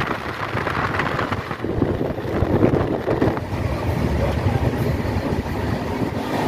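Moving passenger train heard from an open coach door: a steady rumble of wheels on the rails, with wind buffeting the microphone.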